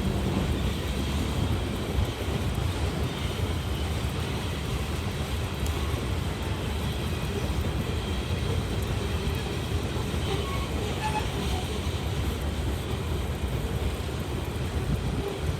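CSX freight train's cars rolling past on the rails, a steady rumble of wheels on track.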